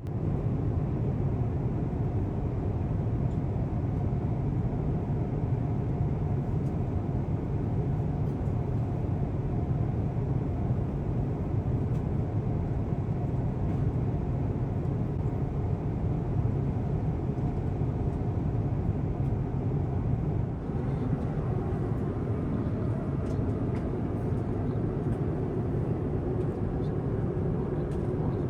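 Steady cabin noise of an Airbus A350-1000 in cruise flight: an even low rumble of engines and airflow, with a few faint clicks near the end.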